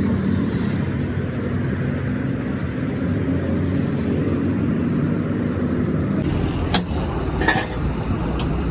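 A motor vehicle engine running with a steady low rumble. In the second half there are a few short, sharp knocks.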